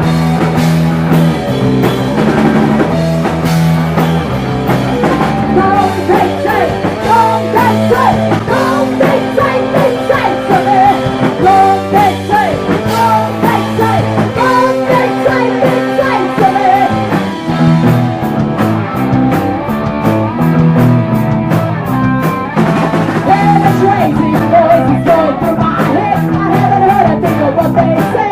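Live rock band playing a song loudly, with electric guitar, bass and drum kit.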